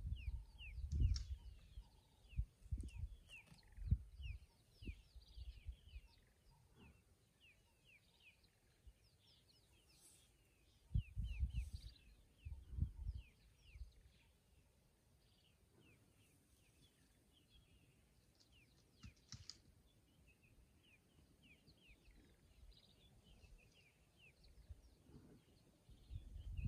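Wild birds chirping, a steady scatter of many short quick high notes, over a quiet bush background. Low, muffled bumps and rumbles come and go: a cluster in the first few seconds, another about halfway, and more near the end.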